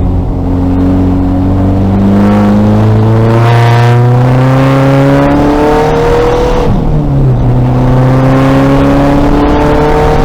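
2000 VW Golf race car's engine accelerating under full load: the revs climb steadily for about five seconds, fall with an upshift about two-thirds of the way through, then climb again.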